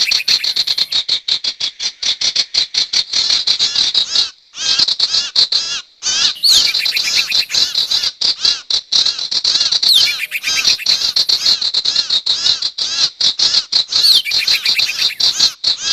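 Sirtu bird lure call (suara pikat): dense, fast, high-pitched chirping, repeated continuously with a couple of brief breaks.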